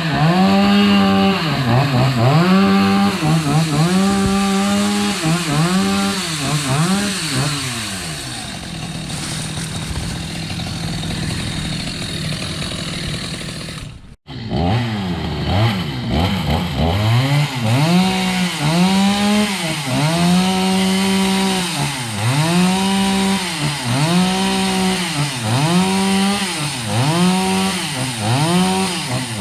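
Two-stroke chainsaw being revved up and down in pulses about once a second, each rev held briefly at full speed before dropping back. In the middle it settles for several seconds into a steadier, quieter drone, then the pulsed revving resumes after a brief break.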